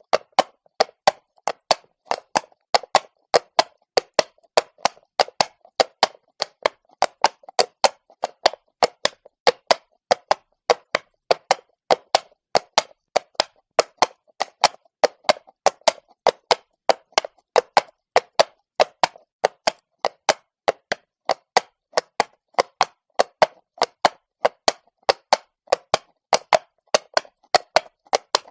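Horse's hooves walking on stone, a steady clip-clop of about three hoof strikes a second.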